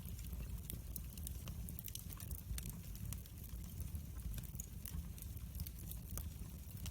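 Wood fire crackling in a fireplace: frequent small sharp pops and snaps over a steady low rumble.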